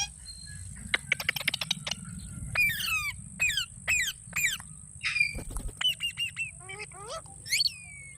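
Green parrot calling: a quick run of clicks about a second in, then a string of short chirps, each sweeping down in pitch, over a steady high hiss.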